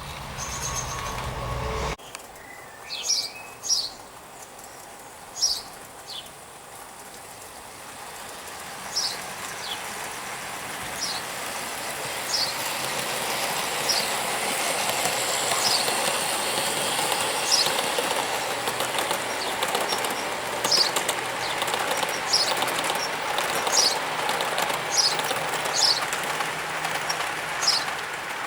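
O gauge model train running on garden railway track. The running noise builds up over several seconds and then holds steady, with short high chirps about once a second.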